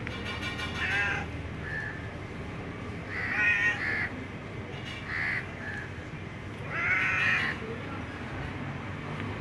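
A crow cawing: four harsh calls a second or two apart, each under a second long.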